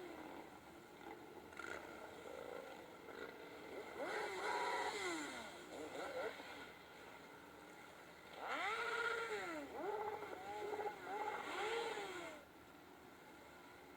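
Motorcycle engine revved in short throttle blips, the pitch rising and falling each time: one rev about four seconds in, then a run of four or five quick revs in the second half before it drops back to a low idle or quiet.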